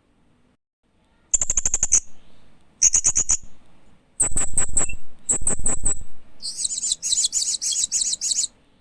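Hanging parrot (Loriculus) chirping: about a second of quiet, then five bursts of rapid, very high, sharp chirps, each burst a quick run of notes, the last and longest near the end.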